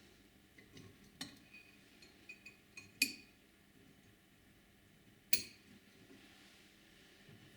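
Metal parts of a tram gear shifter clinking as they are handled and fitted back together: a click, a few light ticks, then two sharp ringing metal clinks about two and a half seconds apart.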